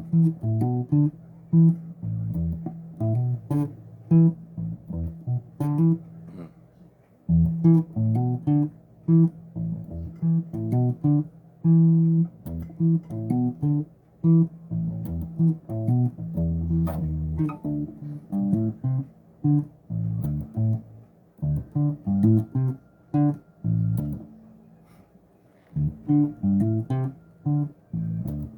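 Bass guitar played solo: a run of plucked low notes and short phrases, with brief pauses about seven seconds in and again near the end.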